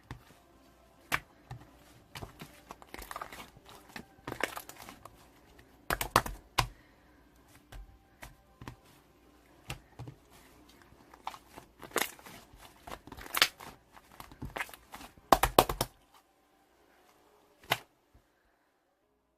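Slime being squished and pressed by hand, making irregular sharp clicks and crackling pops of trapped air. The clicking stops about three quarters of the way through, with one last click shortly after.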